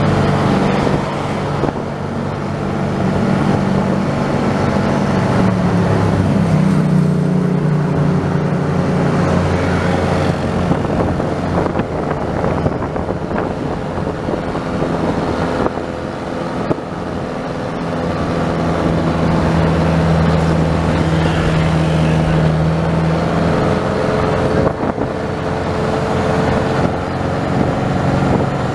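A vehicle's engine running steadily while driving along a road, with tyre and road noise. The engine note shifts in pitch a few times as it speeds up and slows down.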